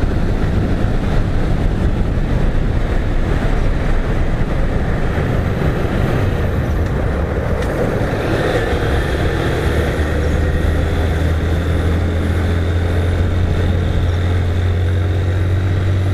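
Motorcycle on the highway at a steady speed: rushing wind noise over the engine's constant drone. The engine note becomes a steadier, clearer hum from about ten seconds in.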